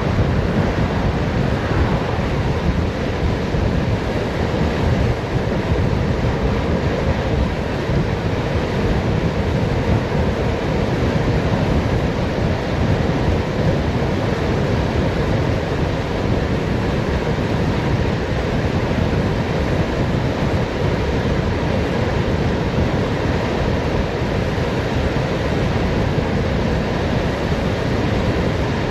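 Steady, loud wind rushing over the microphone of a bicycle descending a mountain road at speed.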